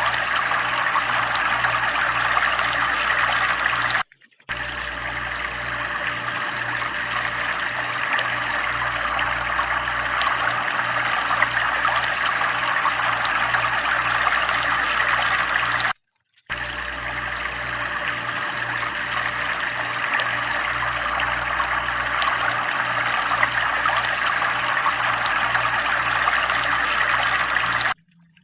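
Water running steadily out of a tubewell, a full splashing pour with a low pulsing underneath about two or three times a second. The sound cuts out for a split second twice.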